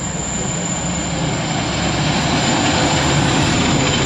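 Class 142 Pacer diesel multiple unit coupled to a Class 156 Sprinter, approaching and running past: diesel engine rumble and wheel-on-rail noise growing steadily louder.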